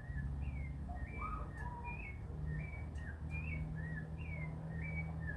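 Birds calling in a run of short whistled chirps, about two a second, each a quick up-and-down note, over a steady low hum.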